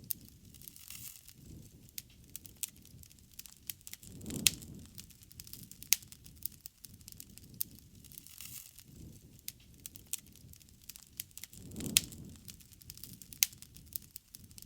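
Wood fire burning, with frequent sharp crackles and pops over a low rumble of flame. The flame swells a little louder twice.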